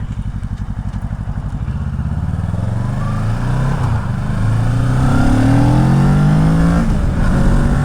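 Kawasaki Ninja 650's parallel-twin engine pulling away from low revs and accelerating hard, its pitch climbing and dropping back at each upshift, heard through an Akrapovic full exhaust with the baffle fitted.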